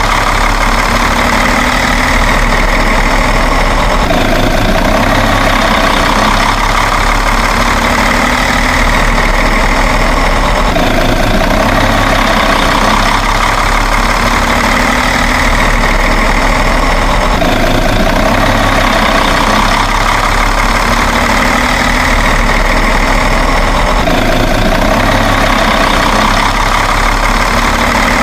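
Truck engine idling steadily, in a loud even drone whose pattern repeats about every seven seconds like a loop.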